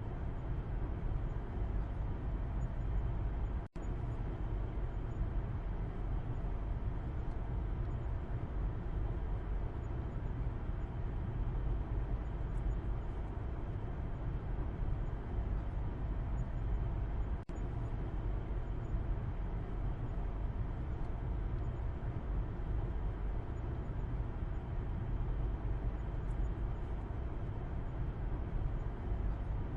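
Steady low road rumble inside a moving car's cabin, heard from the back seat: engine and tyre noise with no other events. The sound cuts out for an instant near 4 s and again about midway.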